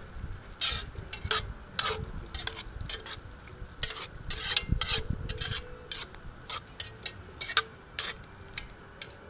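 A spoon stirring in a pan of simmering wine and tomato sauce. It makes irregular scrapes and clinks against the pan, about two a second, over a low sizzle.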